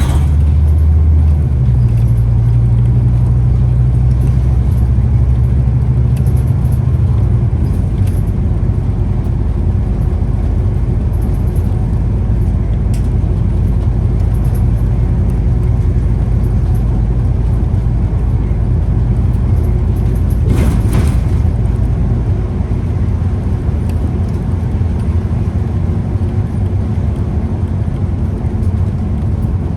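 Scania Citywide city bus's diesel engine and road noise heard on board while driving, the engine note changing over the first several seconds and then settling into a steady rumble. A brief burst of hissing noise comes about two-thirds of the way through.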